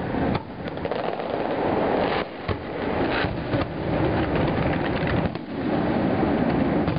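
Fireworks display going off: a dense, near-continuous run of overlapping bangs and crackles from aerial shells bursting, with a few brief dips.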